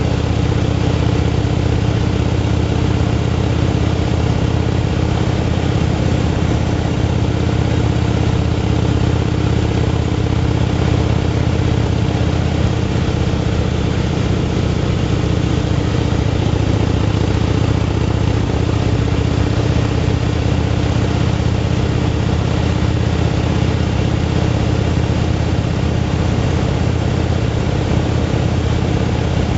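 Motorcycle engine running at a steady cruising speed, its pitch holding level, with steady wind and road noise over it.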